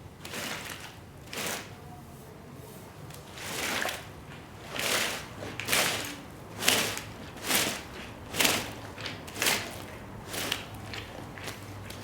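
Repeated wet swishing strokes of a cleaning tool worked across a mud-soaked shag rug, about one a second, over a low steady hum.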